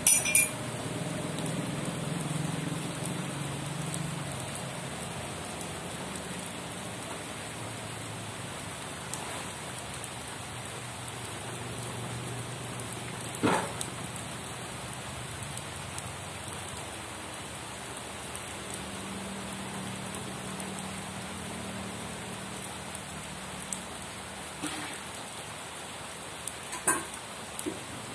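Steady rain falling, with a few louder sharp taps standing out: one right at the start, one about halfway through and a couple near the end.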